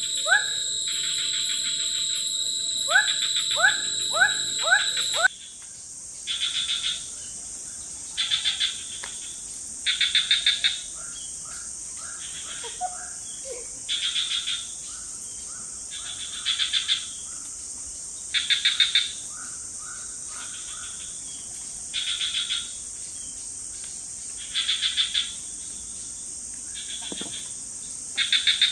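Tropical forest insect chorus. A steady high drone runs under a cricket-like insect calling in pulsed bursts about every two seconds. For the first five seconds a denser chorus is heard with a few short rising calls, and it cuts off abruptly.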